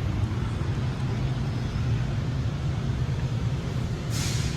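Steady low rumble of a large store's background noise, with a short hiss near the end.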